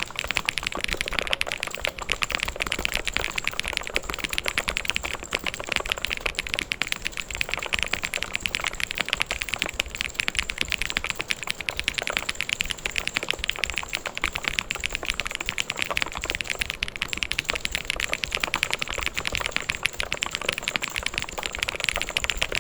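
Continuous fast typing on a mechanical keyboard: a dense, steady stream of key clicks.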